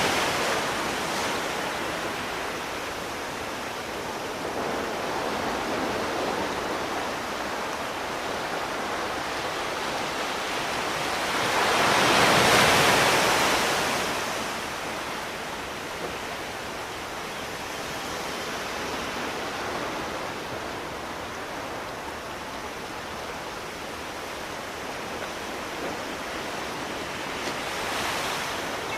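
Sea surf washing in: a steady rush of water with a larger wave swelling up and breaking about twelve seconds in, and smaller swells near the start and near the end.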